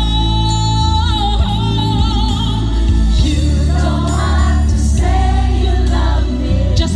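Live ballad with band backing and a strong bass: a singer holds a long note with vibrato, then sings quick vocal runs.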